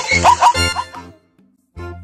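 Zebra's barking call: a quick run of short, rising yelps, about five a second, that stops about a second in. After a brief pause, light background music starts near the end.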